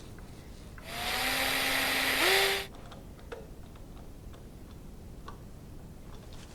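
Power drill running for about two seconds, its motor pitch stepping up just before it stops, as when a screw is driven in. A few faint small clicks follow.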